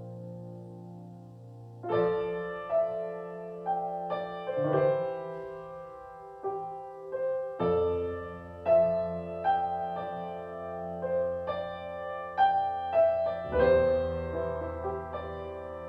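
Keyboard playing a slow, gentle instrumental passage: a held chord, then struck notes that ring and fade begin about two seconds in, a melody over sustained low notes.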